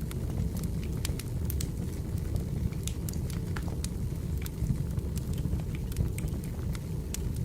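Wood fire burning in a fireplace: a steady low rumble of flames with many small, irregular crackles and pops from the burning logs.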